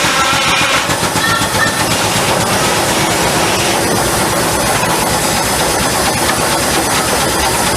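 Steam engine powering a sawmill, running steadily and loud.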